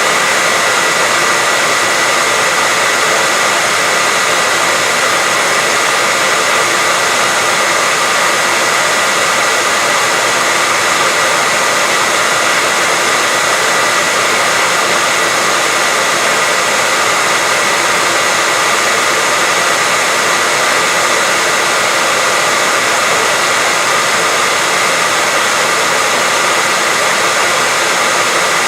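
Steady, unbroken white-noise hiss with a faint high tone running through it.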